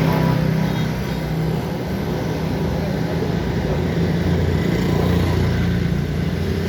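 A motor vehicle's engine running steadily, a continuous low drone with road noise.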